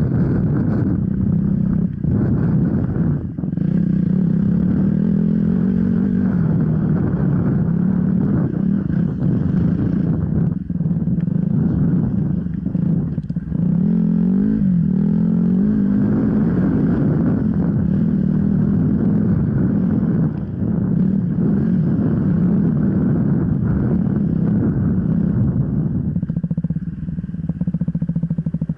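Off-road enduro motorcycle engine running continuously under load, its pitch wavering up and down with the throttle, with several brief dips where the throttle is closed.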